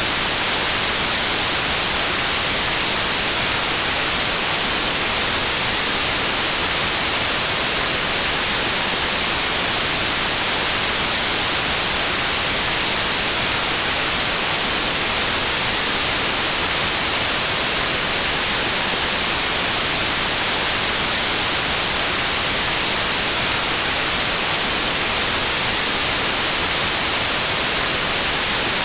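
Steady white noise: an even, constant hiss, brightest in the treble, that never changes.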